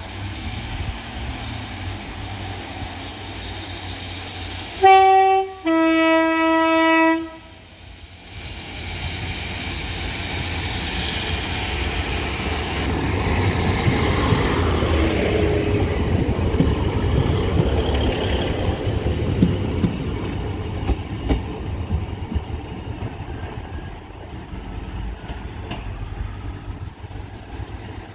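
Sprinter-type diesel multiple unit sounding its two-tone horn, a short high note then a longer low one, about five seconds in. It then runs past close by, its engine rumbling and wheels clicking over the rail joints, louder as it draws alongside and fading as it moves away.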